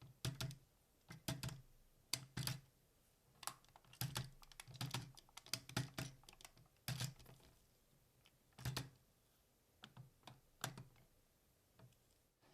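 Hard plastic parts of a DX Seiku-Oh combining robot toy clicking and clacking as it is handled and posed, in irregular clusters of sharp knocks.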